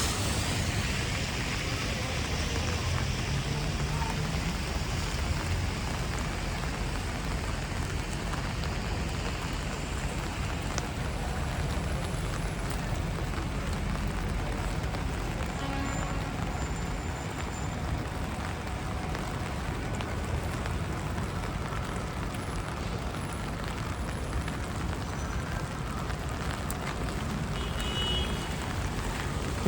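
Steady rain falling on pavement, with the low rumble of city traffic underneath.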